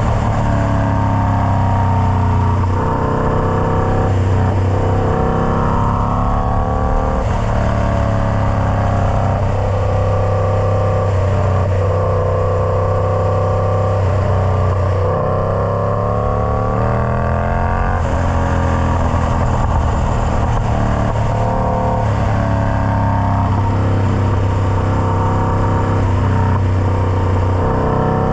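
Indian Scout Bobber's V-twin engine running through a Freedom Performance Combat 2-into-1 exhaust: a steady, deep drone whose pitch rises and falls gently every few seconds.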